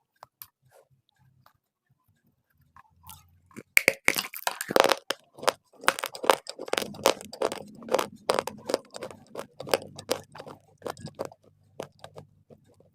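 A person biting into and chewing dry, crunchy clay shaped as a 'burger'. After a few quiet seconds, loud sharp crunches start about four seconds in and carry on as a rapid, irregular run of crunching bites and chews.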